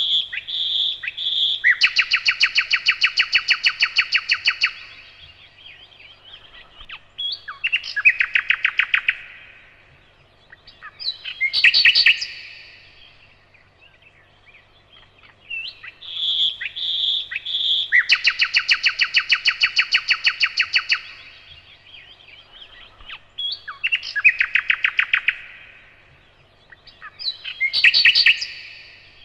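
Nightingale singing: phrases of fast repeated notes, a long rattling run of about three seconds followed by two shorter phrases, with the same sequence coming round again about halfway through.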